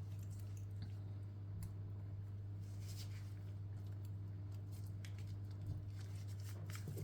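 Faint, soft squishing of hands folding and handling raw, flattened chicken breast, over a steady low hum.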